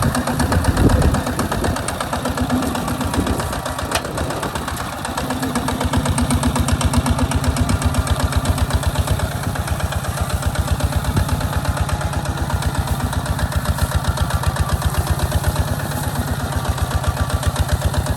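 Hinota HG Gold 155 DI tractor's diesel engine chugging with a steady, even beat while pulling a plow through sandy soil.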